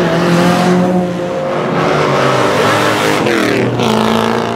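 Drift cars' engines revving hard on a wet track, one engine's pitch swinging sharply about three seconds in as it is revved.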